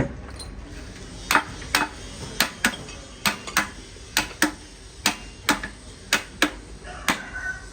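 Hammer striking metal: about a dozen sharp ringing blows, many in loose pairs, at roughly two a second, typical of knocking parts loose during a truck gearbox overhaul.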